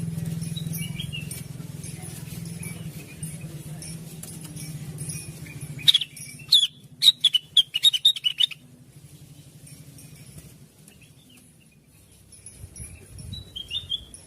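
Blue-winged leafbird (cucak wilis) calling: faint chirps over a low hum at first, then a loud run of quick, sharp chirps from about six to eight and a half seconds in, and a few soft calls near the end.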